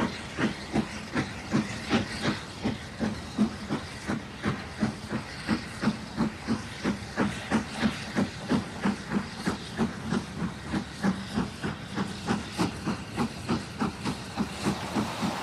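Steam chuffs from a sound-equipped model King Arthur class steam locomotive running along the track. The chuffs come evenly, about three a second, over a steady hiss that grows a little near the end.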